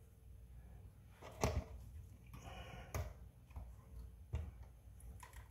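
A few faint, separate clicks and knocks of small metal parts and tools being handled, with a brief light scrape between them.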